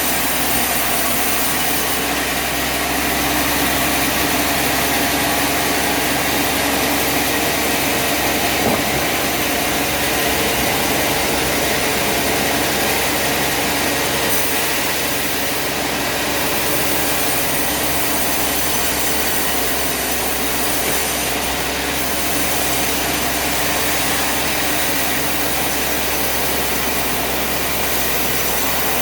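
Sawmill machinery running steadily: an engine hum with a dense, even hiss over it that holds without a break.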